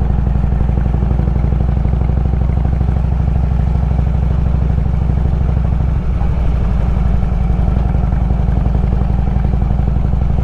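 Harley-Davidson Road King's air-cooled V-twin engine running steadily while the bike rides along a dirt road, easing off briefly about six seconds in.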